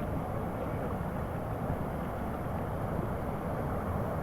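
Waterfall's falling water rushing in a steady, unbroken noise, heaviest in the low end.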